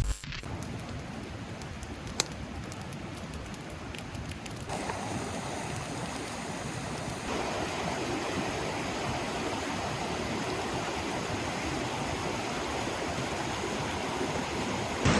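Steady rushing of flowing river water, with one sharp click about two seconds in; the rush grows a little louder in two steps around five and seven seconds in.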